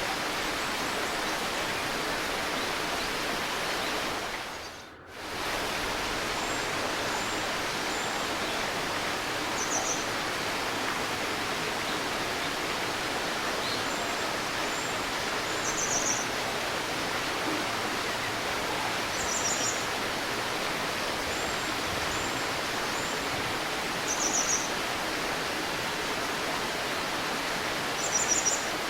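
Steady murmur of a river with small birds calling above it in short, high trills every few seconds. The water sound dips briefly about five seconds in, then returns.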